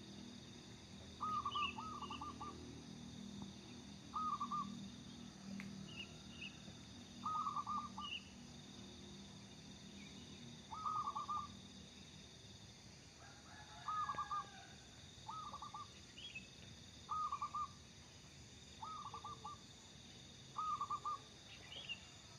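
Zebra dove (perkutut) cooing: short phrases of rapid stuttering coos, repeated every couple of seconds. Faint brief high chirps come between the phrases.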